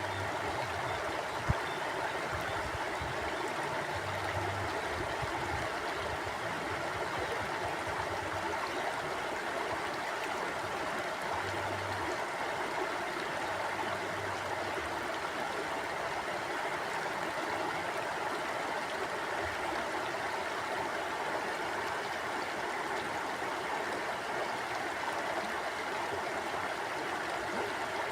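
Forest mountain stream flowing steadily over rocks, an even rushing of water. A single sharp click about a second and a half in.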